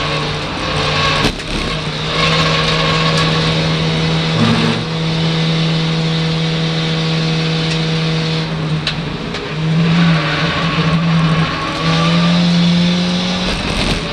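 Ford Fiesta Zetec race car's engine running hard at racing speed, heard from inside the cabin along with road and wind noise. The engine note holds steady for long stretches and shifts pitch a few times with throttle and gear changes through the corners.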